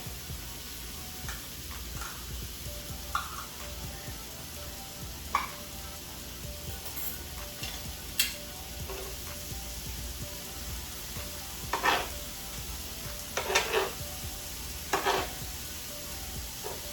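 Food sizzling on a hot flat-top griddle, with a metal spatula scraping and clacking against the cooking surface now and then as the food is stirred; the strikes come more often in the second half.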